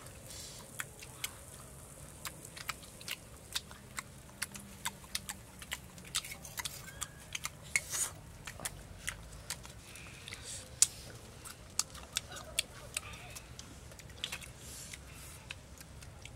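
People eating with open mouth sounds: chewing and lip-smacking, an irregular run of short sharp clicks, two or three a second.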